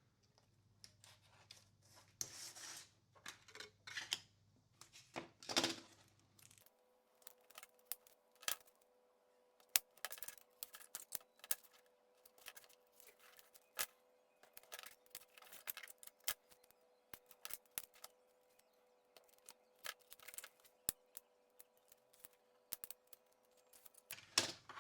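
Irregular sharp clicks, taps and short scrapes of small hard parts being handled and set down on a workbench, with a steady electrical hum underneath that changes to a higher hum about seven seconds in.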